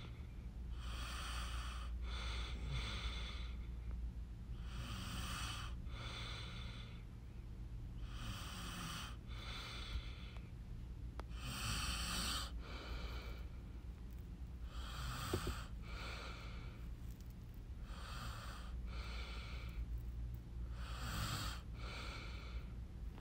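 A person breathing close to the microphone, a breath every one to two seconds, over a low steady hum.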